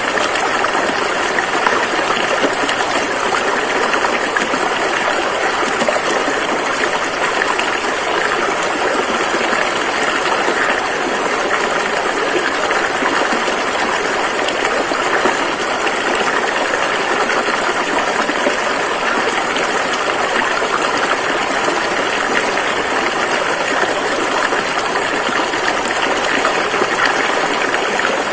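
Rushing river water flowing steadily over rocks, a dense, even rush.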